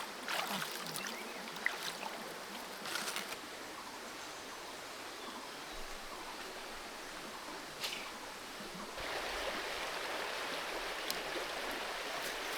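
Creek water running with a steady rushing hiss that gets louder about nine seconds in, with a few brief sharp splashes or knocks.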